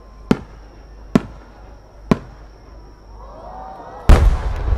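Aerial firework shells bursting: three sharp reports about a second apart, then a much louder boom about four seconds in, followed by rumbling.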